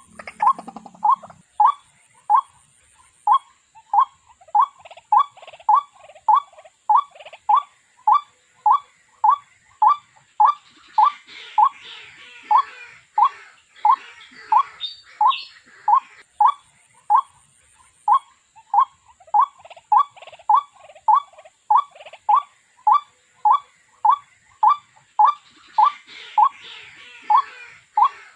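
Waterhen (jal murgi) calling: a long, steady run of short, identical notes, about two a second, with fainter chirps of other birds behind.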